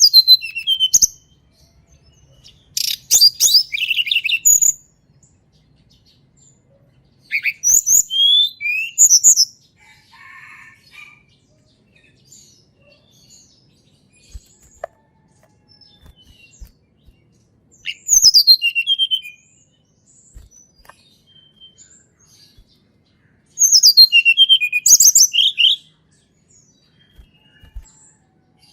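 Blood-breasted flowerpecker singing: five bursts of high, rapid twittering full of quick downward-sliding notes, separated by pauses of a few seconds.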